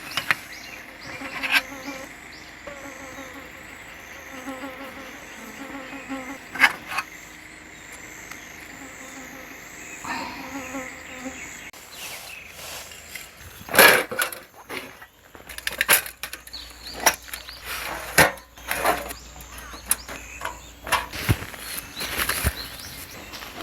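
Insects calling steadily, with a repeated chirping pattern through the first half. From about halfway, a run of sharp knocks, clatters and rustling sounds comes in over them.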